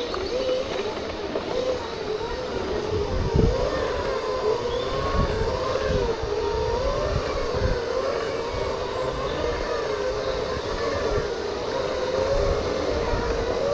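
Segway's electric drive whining steadily, its pitch wavering up and down as the speed changes, over a low, uneven rumble.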